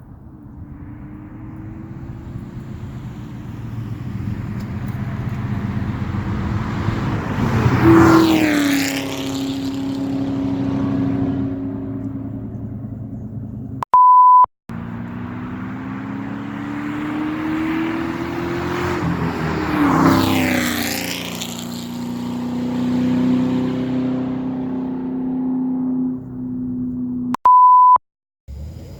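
Two pass-bys of a 2004 Mustang Mach 1's 4.6-litre V8 through an SLP Loudmouth 1 catback exhaust with a BBK off-road X-pipe. Each time the note climbs as the car approaches, is loudest as it goes by, then drops in pitch and fades. A short steady beep follows each pass.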